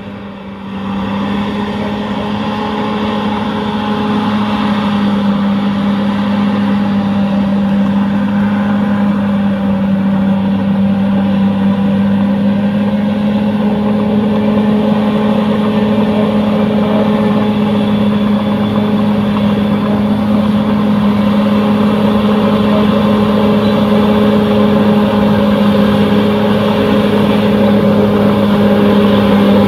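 Bulldozer's diesel engine running steadily at one held pitch. It rises in level about a second in and keeps growing slowly louder.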